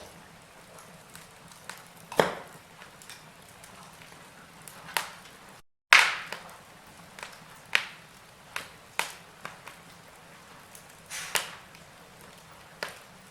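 Wood fire in a fireplace crackling, with sharp irregular pops about once a second over a faint steady hiss. The sound cuts out completely for a split second a little before halfway.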